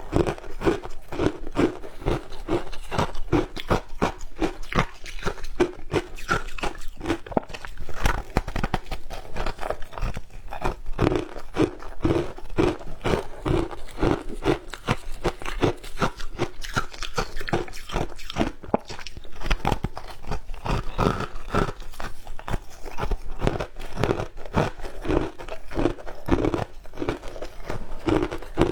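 Close-up crunching and chewing of shaved ice: rapid, continuous crunches, several a second, as a mouthful is bitten and ground between the teeth.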